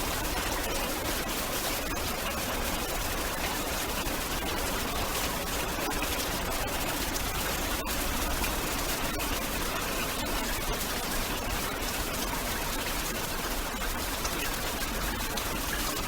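Steady heavy rain: an even, dense hiss flecked with many fine drop ticks, with no thunder.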